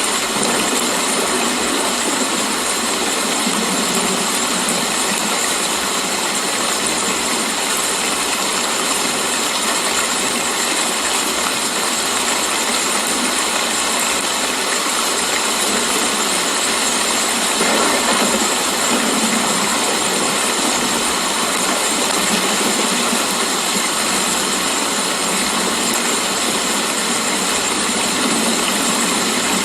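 Steady rain falling, a constant even wash of noise with no single drops or thunder standing out.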